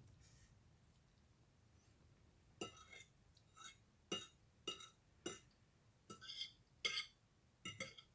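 A fork clinking against a plate with irregular light taps, about a dozen in the last five seconds after a near-silent start.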